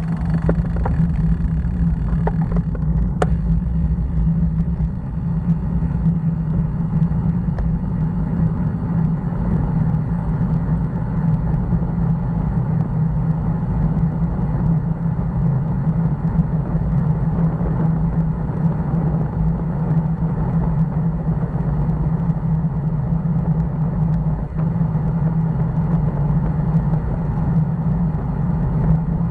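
Steady low rumble of wind and road noise on the microphone of a moving bicycle.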